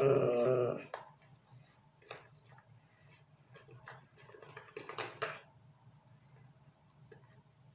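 A dog's pitched call that stops about a second in, followed by faint scattered clicks with a short cluster about five seconds in.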